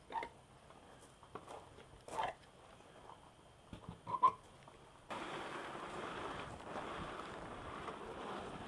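A few scattered light clicks and rustles, then from about five seconds in a steady rush of wind noise on the microphone.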